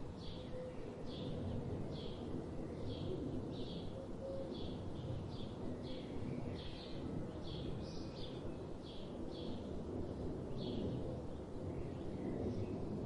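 A bird repeating a short high chirp about twice a second, over a steady low background rumble of outdoor noise.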